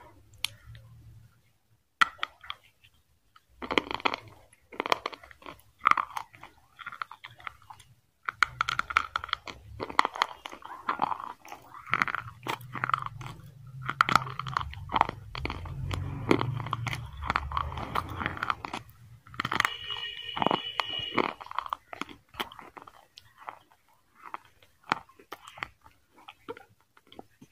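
A person biting and chewing chicken, with irregular crunches and chewing sounds.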